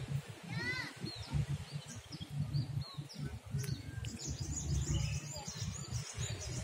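Birds chirping: a few short arched calls and a wavering high trill about four seconds in, over a steady low rumble of outdoor background noise.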